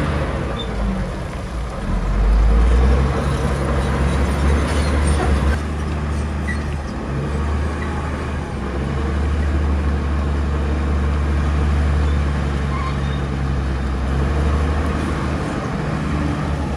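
Bulldozer's diesel engine running under load: a steady low drone that swells and eases a few times.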